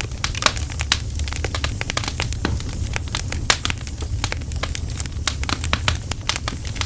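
Wood campfire crackling: burning logs give dense, irregular sharp snaps and pops over a steady low rumble.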